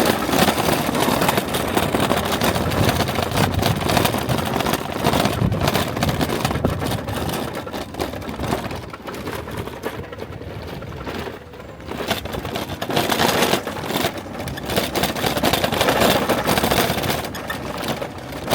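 Car driving along a road: engine and road noise that eases off about halfway through and builds again.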